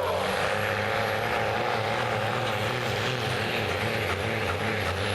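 Diesel pickup truck engine running hard and steady under load while pulling a sled.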